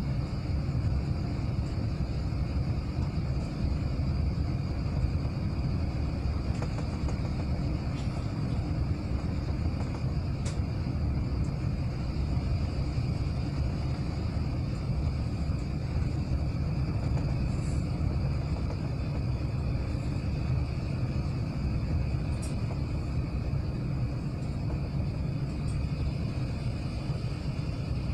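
Steady low rumble of cabin noise inside an Airbus A380 airliner, with a faint steady high hum above it and no change in level.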